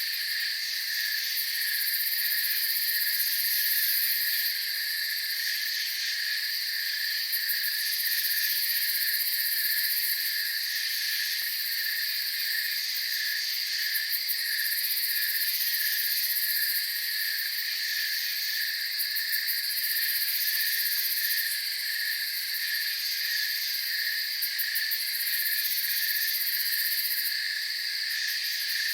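Night chorus of crickets and other insects chirping without a break. A steady high trill runs over a lower, evenly pulsing call, and a higher shimmer swells and fades every few seconds.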